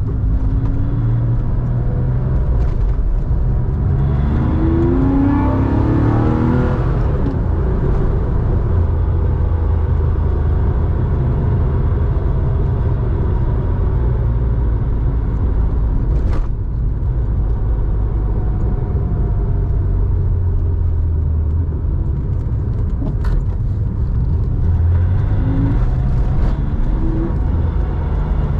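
Air-cooled flat-six of a 1987 Porsche 911, enlarged to 3.4 litres and exhaling through a Scart two-in, one-out muffler, pulling up through the revs a few seconds in, then cruising steadily. It pulls up again near the end, with a couple of short clicks in between.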